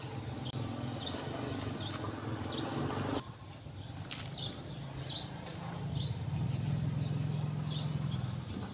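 A small bird chirping repeatedly, short high chirps about once a second, over a steady low hum that grows louder in the second half.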